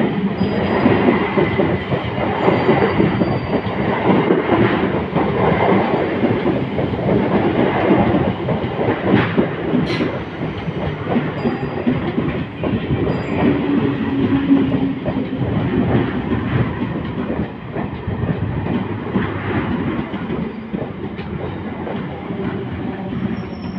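Sealdah–Bongaon electric multiple-unit local train passing close by, wheels clattering over the rail joints in a steady run of clicks and rumble. There is a sharp click about ten seconds in and a brief hum midway, and the noise eases slightly near the end.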